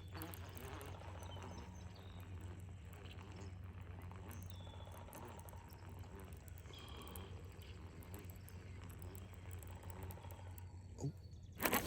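Faint, steady low hum with soft, fast ticking from a baitcasting reel being cranked during a spinnerbait retrieve. A short sharp knock comes near the end.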